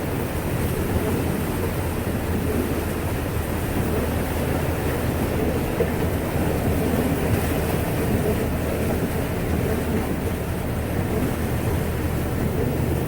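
Steady low rumble of a 39-foot motorhome's engine and running gear, heard from inside the cab as it drives through deep floodwater.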